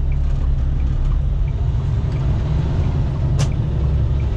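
Steady low drone of a semi truck's diesel engine and road noise heard inside the cab, with a single short click about three and a half seconds in.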